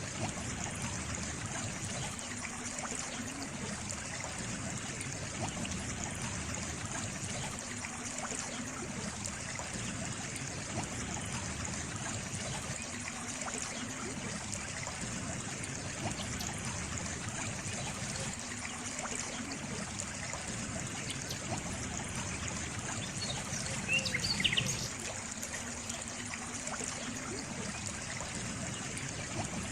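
Water trickling steadily, like a small stream. About four-fifths of the way through comes one brief, slightly louder sound.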